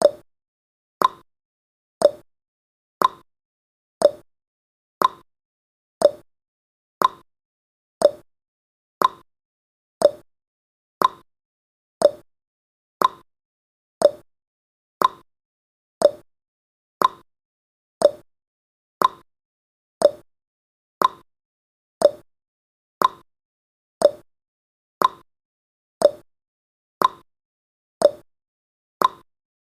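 Countdown timer sound effect: a short tick once every second, each dying away quickly.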